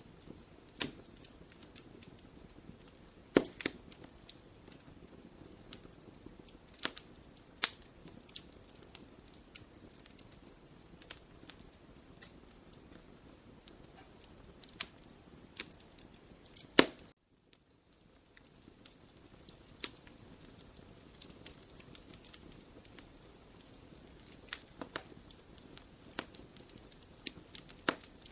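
Wood fire burning in a fireplace, crackling with irregular sharp pops and snaps over a low steady hiss. The sound cuts out briefly about seventeen seconds in, just after a loud pop.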